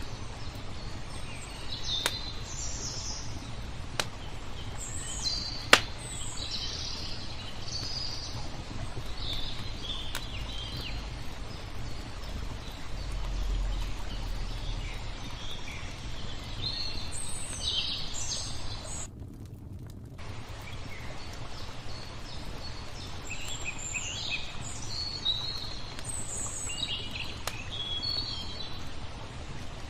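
Lakeside nature ambience: small birds chirp and twitter again and again over a steady low rush of water, with a few sharp pops from a crackling wood fire, the loudest about six seconds in. The sound above the low rumble cuts out for about a second roughly two-thirds of the way through.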